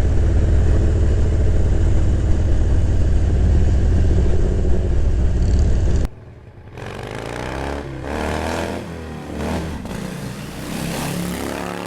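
Motorcycle riding noise: the engine running and wind rushing over the mic, loud and steady, cutting off abruptly about six seconds in. Then motorcycle engines revving, the pitch rising and falling several times.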